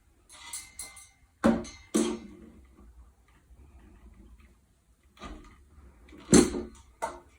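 Ceiling fan hardware and wiring being handled: scattered rustles and clicks, with three sharp knocks, two near the start and one near the end, each ringing briefly.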